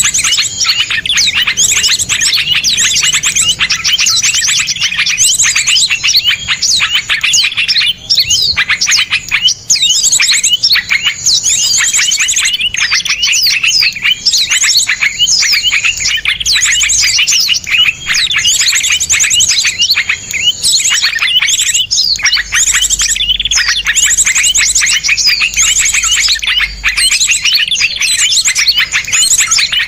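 Dense chorus of small songbirds: many rapid, high, sharp chirps and trills overlapping with no pause.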